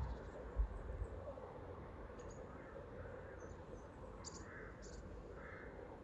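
Faint background noise with a few short, high bird chirps scattered through it.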